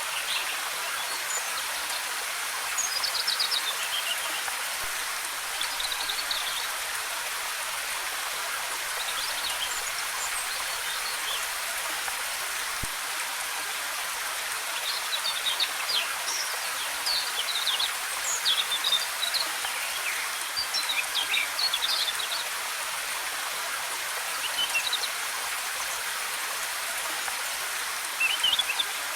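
Steady rush of a waterfall with forest birds chirping on and off over it, the chirping busiest in the second half.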